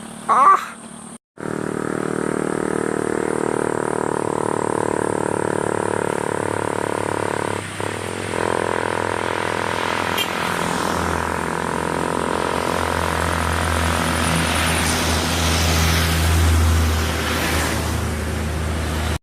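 Heavy truck's diesel engine running steadily, with a deeper low rumble building from about 11 seconds in and easing near the end.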